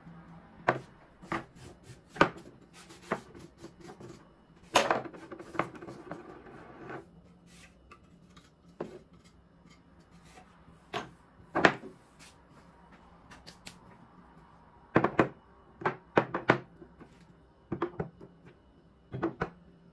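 Irregular clicks and knocks of containers, lids and jars being handled and set down on a hard surface, with a stretch of rubbing or scraping about five to seven seconds in.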